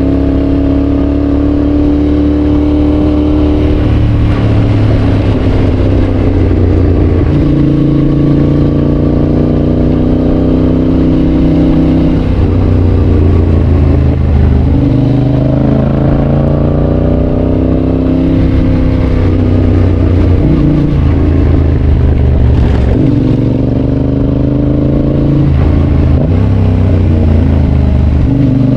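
Yamaha Tracer 7's 689 cc parallel-twin engine through a GPR aftermarket exhaust, ridden on the road. The engine note climbs and drops several times as it is worked through the gears.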